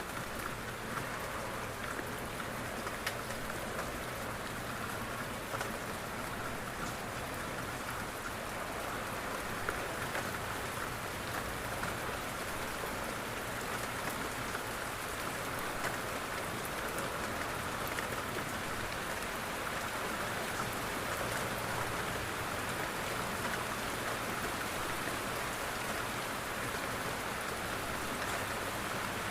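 Steady rain falling on a window pane: a dense, even hiss with many small drop ticks.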